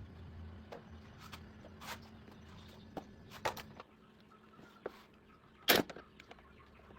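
Scattered light clicks and knocks of hand work on a motorcycle repair, with one sharper knock about six seconds in. A low hum fades out near the start.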